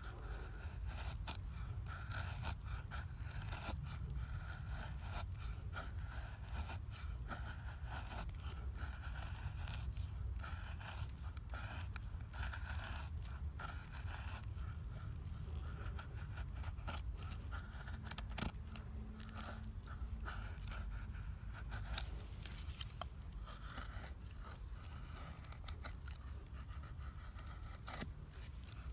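Wood bonfire crackling, with irregular sharp pops and one louder pop about 22 seconds in, over a steady low rumble.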